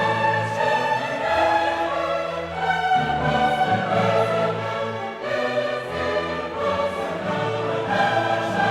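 Choral and orchestral music: a choir singing long held notes over an orchestra, the chords changing every second or so.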